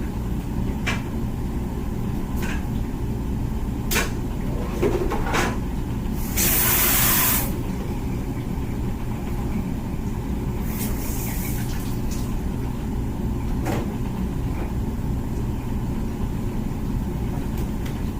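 Comfee dishwasher running mid-cycle: a steady low pump rumble with water spraying and sloshing inside, scattered light clicks, and a louder hiss for about a second around six seconds in.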